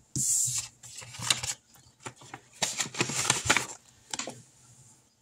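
Paper bills and a cash envelope being handled: several short bursts of rustling and crinkling with small clicks, the loudest in the first half-second.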